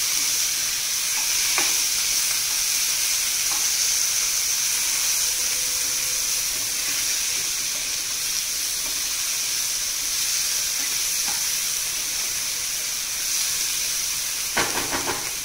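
Chopped onions and tomatoes sizzling steadily in butter in a non-stick frying pan while being stirred with a plastic spatula.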